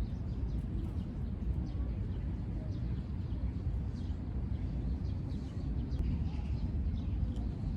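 Outdoor park ambience: a steady low rumble, with small birds chirping faintly and repeatedly in the background.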